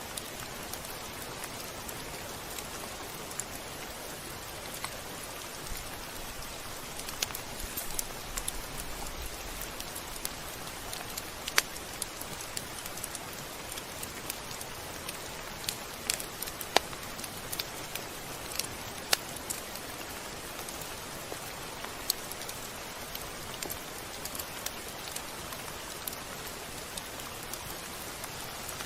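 Steady rain falling, an even hiss with scattered sharp drip ticks and pops, a few louder ones midway.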